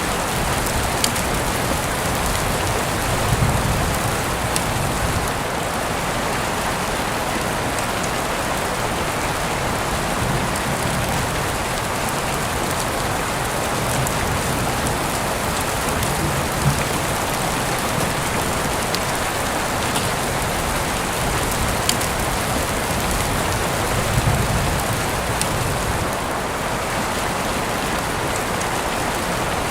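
Heavy rain falling steadily, heard through an open window, with individual drops ticking sharply now and then and a few brief low swells.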